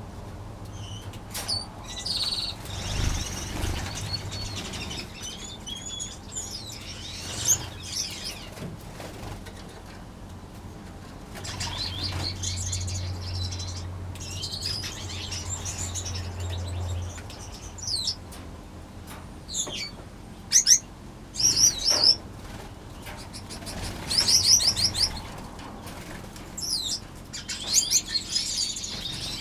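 Many small aviary finches chirping and trilling in short high calls, with bursts of wing fluttering as birds fly between perches. A low steady hum runs for several seconds near the start and again in the middle.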